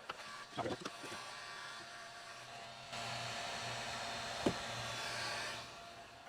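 A few knocks of handling, then a heat gun blowing steadily from about three seconds in until shortly before the end, warming the plumbing, with a single sharp click partway through.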